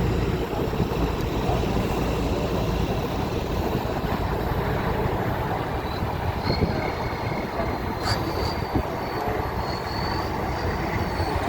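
Heavy truck engine running with a steady low rumble; from about six seconds in, a thin high squeal runs over it.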